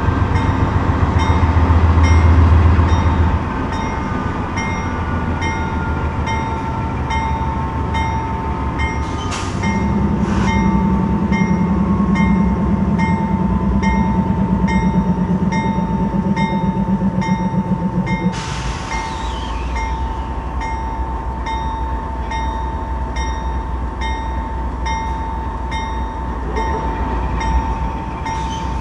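Norfolk Southern diesel freight locomotives working to get a heavy intermodal train moving again from a stop. The engine note shifts a few times as they load up, over a steady high-pitched tone.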